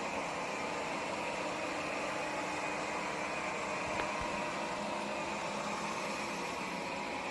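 Airzeen R7 robot vacuum running: a steady whir of its suction fan and brushes, with a faint click about four seconds in.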